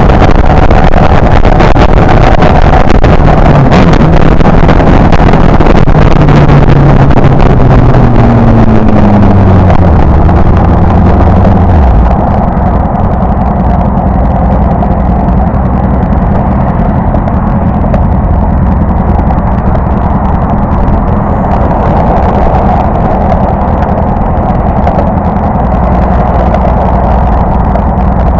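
Motorcycle engine with heavy wind noise on the microphone. Its pitch falls over several seconds as the bike slows. About twelve seconds in, the wind noise drops away and the engine settles to a low, steady running note.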